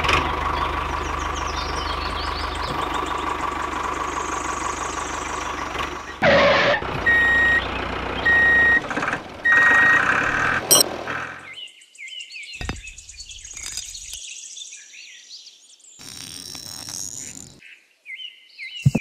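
Tractor engine running steadily, then three reversing beeps about a second apart. After that it goes quieter, with faint bird chirps.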